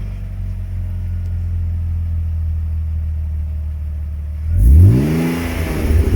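BMW E46 320i's M52B20 2.0-litre straight-six idling through a new stainless steel exhaust, then revved once about three-quarters of the way in, pitch rising sharply and falling back, with revs starting to climb again at the very end.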